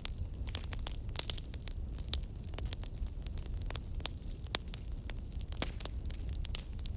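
Wood fire burning in a fireplace: irregular crackles and pops over a steady low rumble, with the sharpest pops about a second in and about four and a half seconds in.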